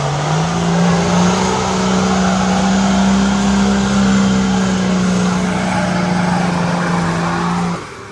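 Off-road 4x4's engine held at high revs in one long, steady, loud drone, its pitch stepping up slightly about half a second in, over a rushing noise of spinning tyres. The sound cuts off suddenly near the end.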